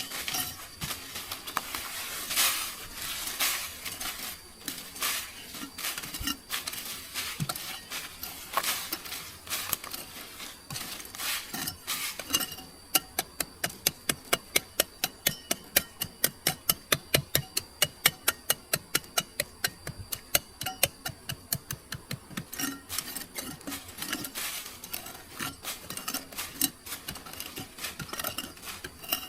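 Utensils clinking and tapping against dishes, then from about halfway in a run of quick, even strokes, about four a second, lasting some eight seconds before going back to irregular taps.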